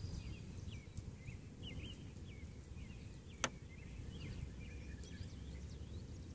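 Small birds chirping repeatedly over a steady low outdoor rumble, with one sharp click about three and a half seconds in.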